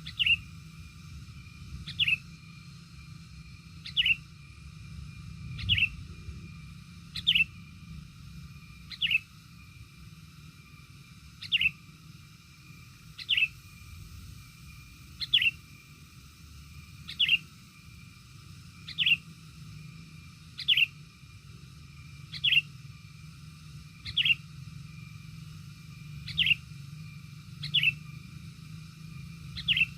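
A bird's call: one short, sharply falling note repeated at a steady pace, about once every two seconds, over a steady low rumble.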